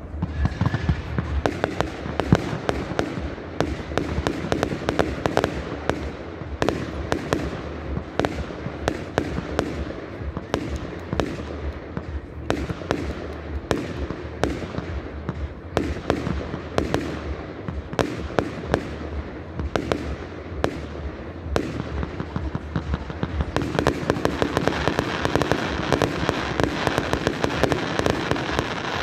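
Fireworks display: aerial shells bursting with a steady run of sharp bangs, several a second. About five seconds before the end the bangs crowd together into a dense crackling barrage.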